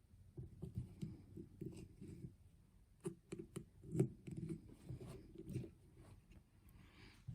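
Faint, irregular clicks and light knocks of hand tools and small carburetor parts being handled while an outboard carburetor is taken apart, in two runs with a short lull between them.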